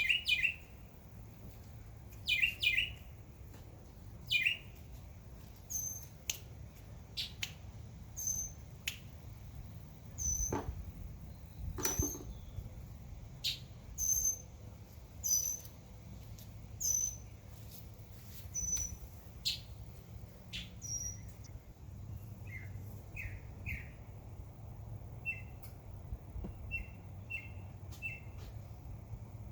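Several wild birds chirping: quick clusters of short chirps at the start and near the end, and a short high call repeated about every second and a half through the middle, over a low steady background rumble.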